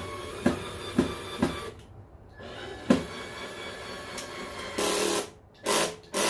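Power drill driving screws. It runs with sharp knocks about every half second and stops about two seconds in. Near the end it runs again in three short bursts.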